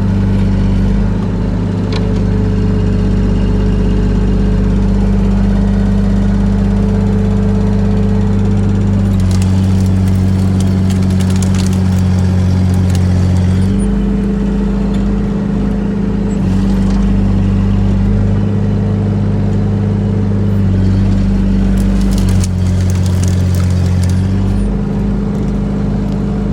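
Excavator's diesel engine running under load, its pitch stepping up and down as the machine works, with several bursts of clattering and scraping partway through.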